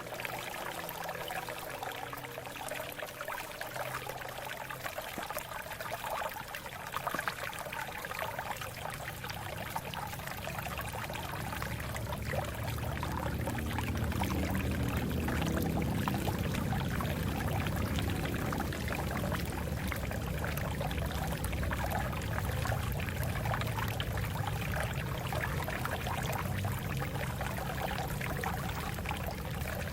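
Water flowing over rocks in a steady rush that grows louder and deeper from about twelve seconds in.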